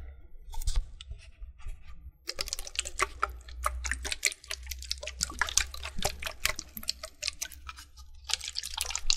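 Water handled close up, splashing and dripping, with a dense run of small wet clicks that starts about two seconds in.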